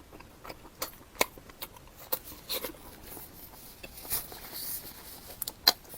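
Close-up mouth sounds of a person chewing food: irregular wet clicks and smacks, a few louder ones near the end.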